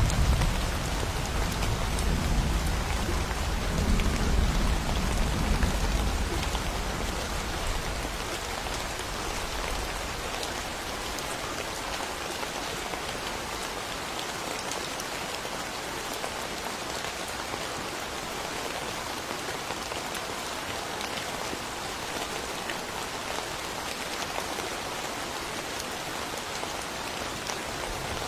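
Steady rain falling, an even hiss, with a low rumble of thunder dying away over the first several seconds.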